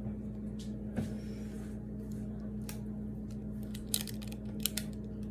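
Hands handling a watermelon wrapped in rubber bands: a few light clicks and taps, mostly toward the end, with a brief soft rustle about a second in, over a steady low hum.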